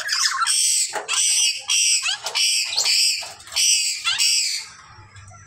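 Black-capped lory screeching: a rapid run of loud, harsh calls, about two a second, stopping shortly before the end.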